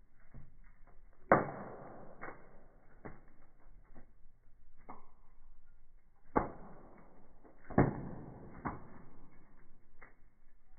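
Firewood burning in a fireplace, crackling with irregular sharp pops over a faint hiss; the loudest pops come about a second in and again near eight seconds.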